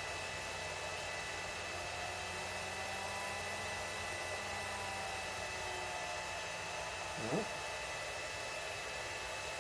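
Electric drive of a Cornelius 3000 PSI high-pressure compressor switched on at about 10% power, giving a low steady hum over a hiss; at that setting it seems too weak to turn the pump properly. A brief rising squeak comes about seven seconds in.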